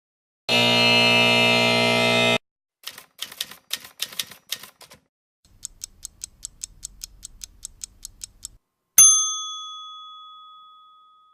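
A run of separate sound effects: a loud buzzing alarm-like tone for about two seconds, then a quick patter of irregular clicks like keyboard typing, then faint even ticks at about six a second. Near the end comes a single bell-like strike that rings out and slowly fades.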